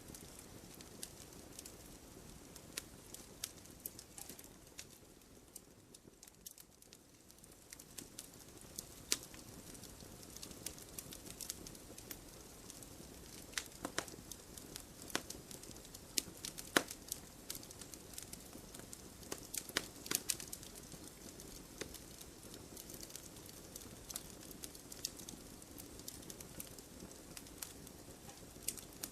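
Wood fire burning in a fireplace: logs crackling and popping irregularly over a soft steady hiss, with a quieter stretch early on and the sharpest pop about 17 seconds in.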